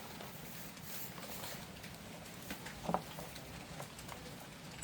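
Steady rain pattering, with scattered faint ticks and one short low sound about three seconds in.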